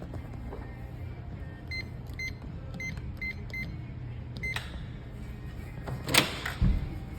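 Electronic keypad on a shower room door lock beeping six times as a code is keyed in, then two loud clunks near the end.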